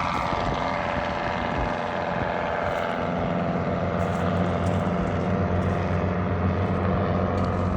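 Helicopter flying past: a steady engine-and-rotor drone with a higher whine that falls in pitch over the first couple of seconds as it goes by.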